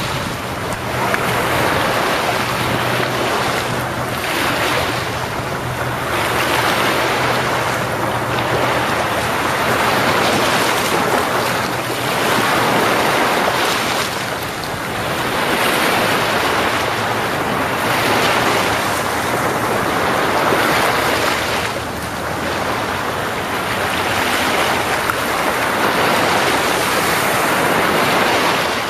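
Sea waves breaking and washing on the shore, a continuous rush that swells and falls back every few seconds.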